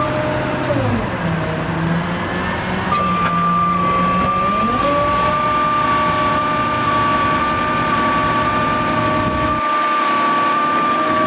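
Bucket truck's engine and hydraulic pump running with a steady whine. About a second in the pitch drops as the engine slows, then it rises back to the higher speed about five seconds in and holds there.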